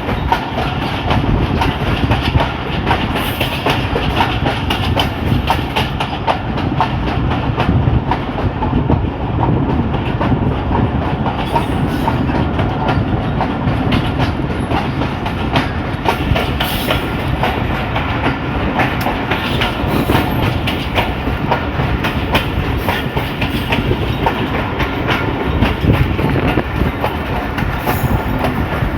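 Passenger train running at speed: a steady rumble with the clickety-clack of wheels over rail joints.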